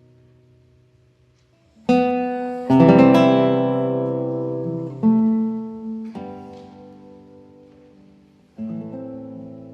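Background music: acoustic guitar chords strummed and left to ring out, about five strums spaced a second or two apart, the loudest about three seconds in.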